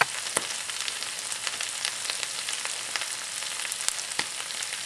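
Shrimp, white beans, celery and red bell pepper sizzling in olive oil in a skillet: a steady hiss with frequent small crackles and pops.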